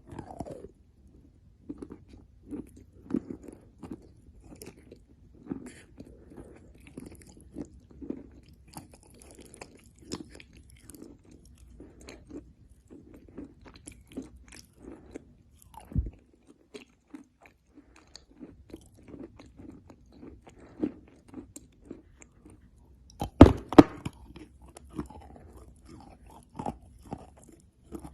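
Chalk being chewed and bitten close to the microphone: irregular dry crunches, with a sharp loud bite a little past halfway and a cluster of louder crunches near the end.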